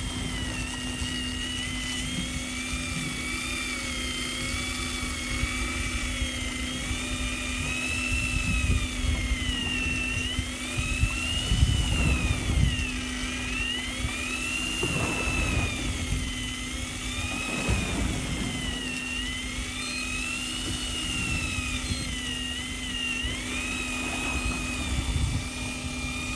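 High-pitched electric motor whine that keeps rising and falling in pitch as the load changes, typical of an electric fishing reel winding in line, over a steady low hum and rumble. It stops abruptly at the end.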